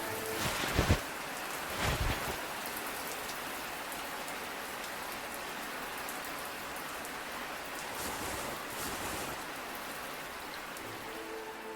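Steady rain falling with a constant hiss. Two louder thuds come about one and two seconds in.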